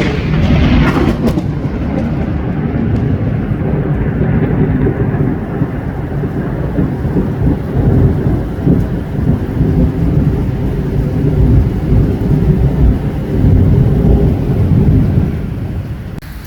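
Thunder: a sharp crack right at the start, then a long low rumble that swells and ebbs and dies away near the end.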